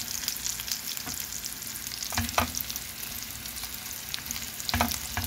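Sliced chicken nuggets frying with garlic and onion in a pan: a steady sizzle, with a wooden spatula scraping and knocking against the pan about two seconds in and again near the end.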